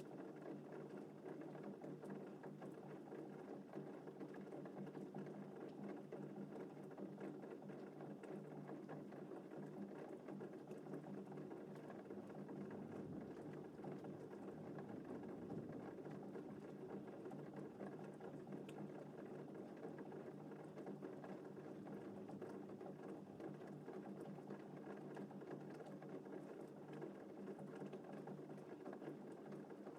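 Gentle rain falling steadily in an even patter. A brief low rumble of distant thunder swells about halfway through.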